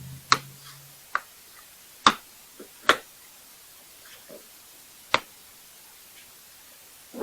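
Five sharp clicks or knocks at irregular intervals, the loudest about two seconds in.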